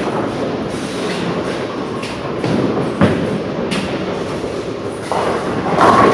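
Bowling alley din: the steady rumble of bowling balls rolling down the lanes, with a single sharp knock about three seconds in. It gets louder from about five seconds in.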